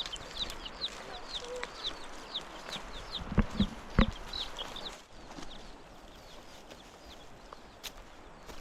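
Birds chirping: a fast run of short, high, downward-sliding peeps, several a second, that stops about five seconds in. Three heavy thumps land close together about three and a half to four seconds in.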